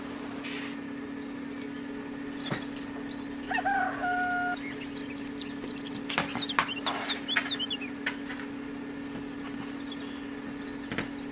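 Birds calling over a steady low hum. A held call comes about three and a half seconds in, followed by a run of quick high chirps; there is a single light tap a little earlier.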